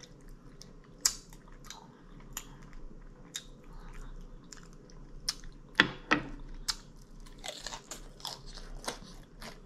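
A person chewing and biting crunchy fried food close to the microphone, with irregular sharp crunches and mouth clicks.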